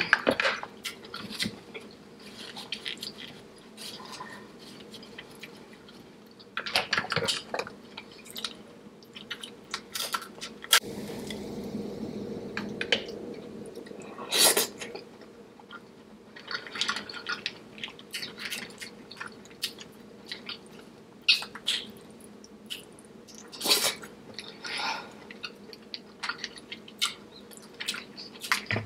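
Close-miked chewing and mouth sounds of someone eating a seafood boil in sauce, in irregular bouts of sharp smacks and clicks with short pauses between.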